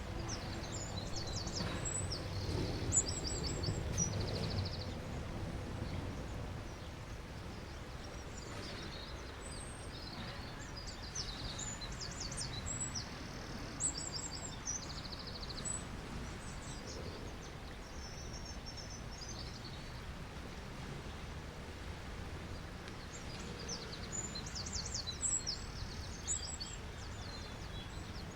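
Small birds chirping in short, rapid trills, in clusters a few seconds apart, over a steady low wash of sea waves.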